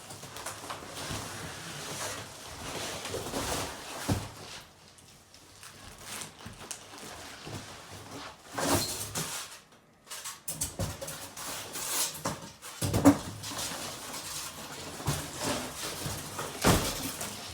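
A shipping box and its packaging being handled and pulled apart: continuous rustling and crinkling, with a few sharp knocks about 4, 9, 13 and 17 seconds in.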